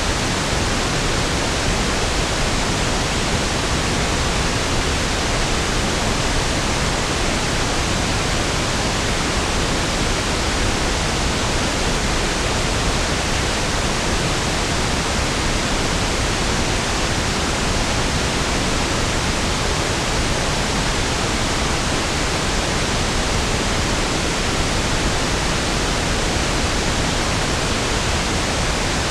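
Steady pink noise (1/f noise): an even, unchanging hiss spread across all frequencies, smoother and lower-weighted than white noise.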